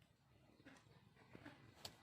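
Near silence, with a few faint short taps about a second in and near the end.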